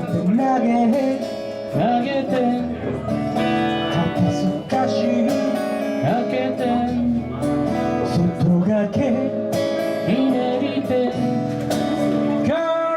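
Live acoustic song: a strummed acoustic guitar with a voice singing over it.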